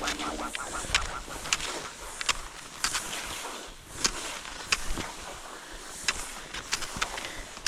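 Crisp crunches in snow, about one every two-thirds of a second, at a walking or striding pace over a light hiss.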